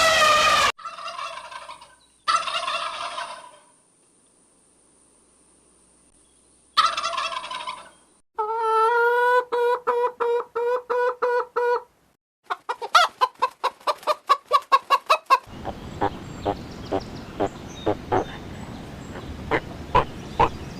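Fowl calling: a few separate short pitched calls with a pause, then rapid rattling trills of quick repeated notes. After that comes a run of sharp, evenly spaced clicks over a steady background hiss.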